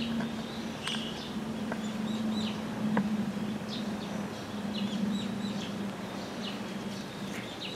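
Birds chirping with many short, high calls scattered throughout, over a steady low hum.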